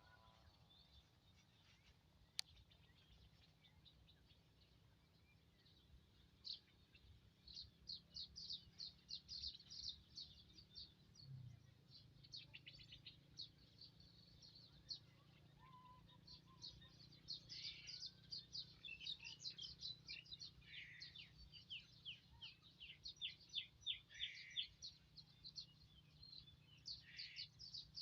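Small birds chirping in fast, high trills, starting about six seconds in and going on repeatedly, with a few short falling calls among them. One sharp click sounds a couple of seconds in, over a faint low hum.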